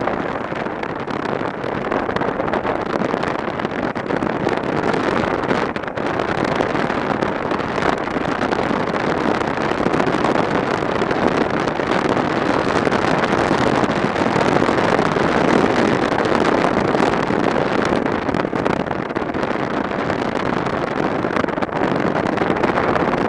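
Steady wind rush over a microphone mixed with motorcycle engine and road noise while riding at speed.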